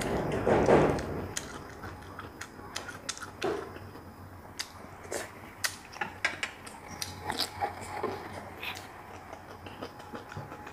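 A person chewing food close to the microphone: scattered wet mouth clicks and smacks, busier in the first second.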